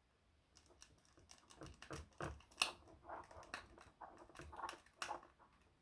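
Screwdriver driving a small screw back into an IMOU Bullet 2C security camera's housing: a faint run of uneven small clicks and scrapes, with a sharper click about two and a half seconds in.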